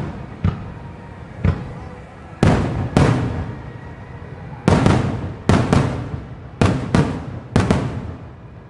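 Aerial firework shells bursting in a rapid series of booms, about a dozen over eight seconds, some in quick pairs, each trailing off in a rumbling echo. The shells are 5-inch (No. 5) shells fired as a starmine, and the bursts stop shortly before the end.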